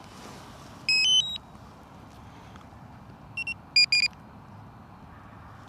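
Electronic beep tones from DJI drone gear: a rising three-note chime about a second in, then a pair of short beeps and two more a little lower in pitch just past the middle, over a quiet steady background.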